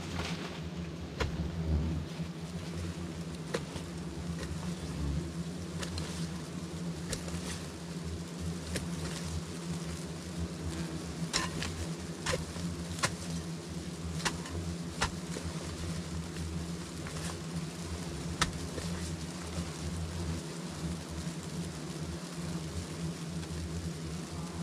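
Many wild bees buzzing in a steady low drone, with scattered sharp clicks over it.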